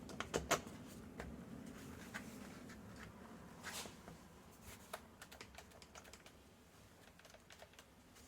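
Faint, irregular light clicks and taps of small plastic and metal parts being handled during reassembly of a string trimmer's carburettor and air filter housing, with a brief rustle near the middle.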